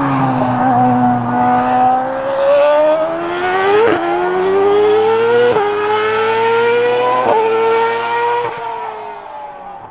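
Ferrari F2008 Formula One car's 2.4-litre V8 at high revs. The note falls for about a second as the car slows, then climbs hard with quick upshifts about four seconds in, then near five and a half, seven and eight and a half seconds, and fades near the end as the car pulls away.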